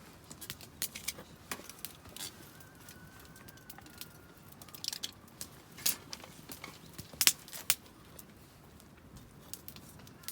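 Irregular sharp clicks and crackles, scattered unevenly, with the loudest snap a little past seven seconds in; a faint thin whistle-like tone is held from about two to four and a half seconds.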